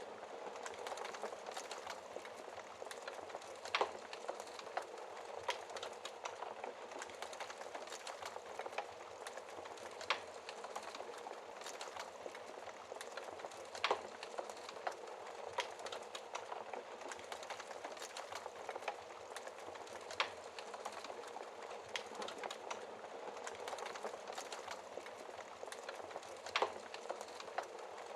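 Fire burning behind a glass shield: a steady hiss with a constant patter of small crackles, and about five sharper pops standing out.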